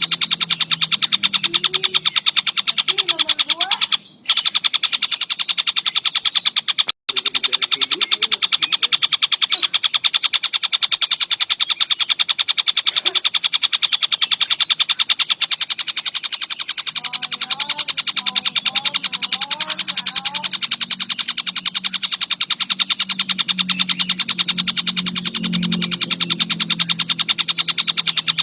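Tengkek buto kingfisher giving a continuous, rapid chattering call: a fast unbroken run of sharp, evenly repeated high notes, with two brief breaks about four and seven seconds in.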